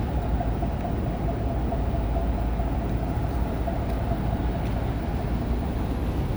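A steady low motor rumble with a thin steady hum over it.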